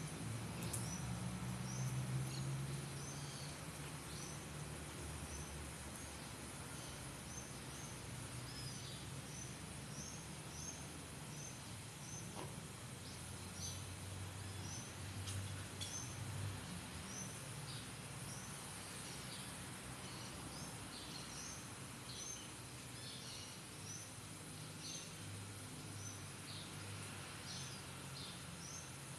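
Small birds chirping over and over in short, high calls, over a steady low rumble.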